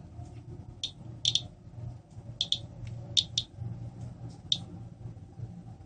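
Geiger counter clicking at an irregular, slow rate, about nine sharp clicks in six seconds, over a low steady hum. The slow count is normal background radiation from a furnace filter that earlier read over 800 counts per minute.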